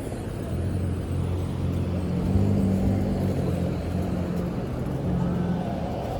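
Steady low rumble of a moving public transit vehicle, with a motor hum that swells a little partway through.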